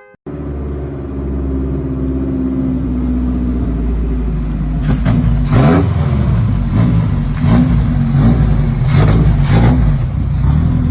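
The 1953 MG TD's 1250cc four-cylinder engine running, then blipped in a series of short revs from about five seconds in.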